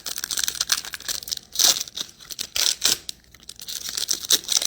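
Foil trading-card pack wrappers being torn open and crinkled in the hands, a run of irregular crackles and rustles.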